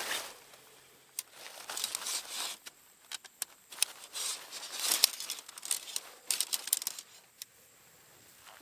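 Crinkling and rustling of something being handled, in irregular bursts with scattered light clicks, quieter toward the end.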